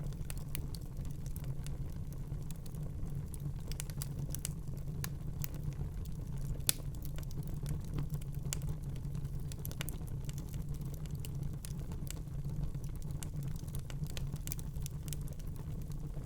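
Wood fire burning in a fireplace with a low steady rumble and scattered crackles and pops, one sharper pop near the middle.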